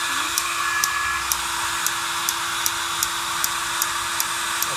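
Propane hissing steadily through a homemade pulse jet engine with a faint whistle tone in it, while the spark igniter clicks about two and a half times a second. The gas is not lighting.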